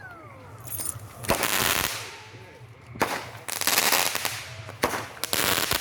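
Consumer fireworks going off: a string of loud bangs and crackling bursts, with single sharp cracks about three seconds in and again near five seconds.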